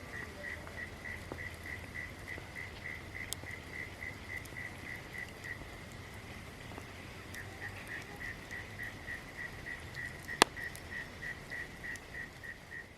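Campfire crackling with scattered small pops and one sharp, loud pop about ten seconds in, over a steady high chirping call repeating about four times a second that briefly runs into a continuous tone near the middle.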